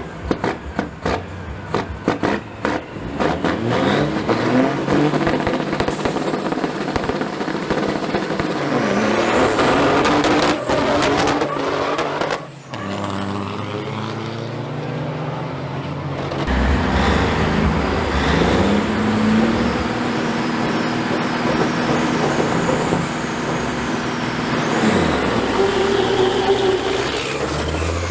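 Big-rig diesel engines under hard acceleration, the pitch climbing and then dropping back at each gear shift. A break about twelve seconds in gives way to another truck's run.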